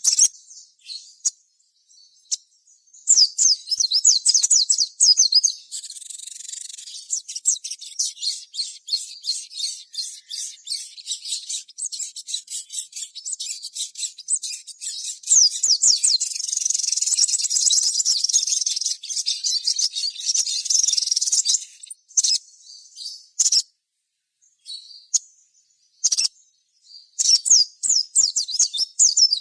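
A sogon (sogok ontong) bird singing a rapid, high-pitched chattering trill of quick repeated notes, in long unbroken runs. Near the end it breaks into scattered short chirps with pauses before another fast run.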